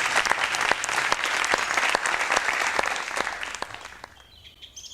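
A crowd applauding with many hand claps, dying away about three to four seconds in, followed by faint high chirps near the end.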